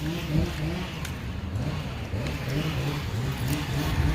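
A motor vehicle engine running, its low pitch rising and falling repeatedly.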